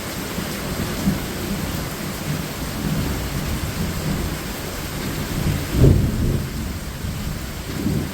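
Heavy tropical rain pouring steadily, with thunder rumbling low underneath and swelling loudest about six seconds in.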